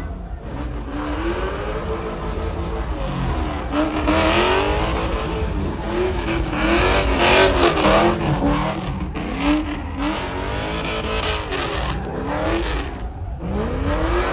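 Truck engines revving over and over, the pitch climbing and dropping again every second or two, with several engines overlapping over a steady low rumble.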